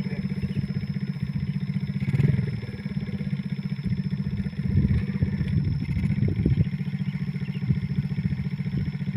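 Motorcycle engine running steadily with an even pulse, with louder surges and clatter about two seconds in and again between about five and six and a half seconds in.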